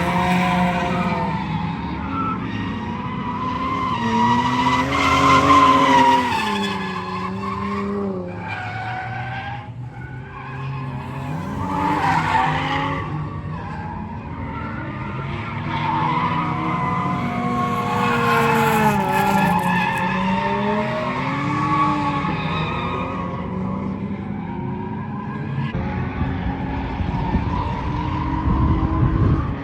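Nissan R32 Skyline drifting: the engine revs rise and fall over and over as it slides, with tyres squealing and scrubbing underneath.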